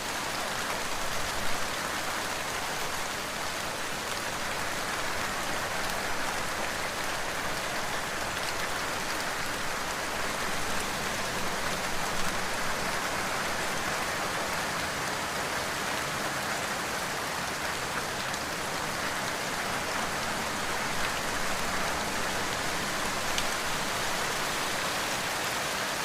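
Heavy rain falling steadily, a dense even hiss of rain on surfaces with a few slightly louder spatters.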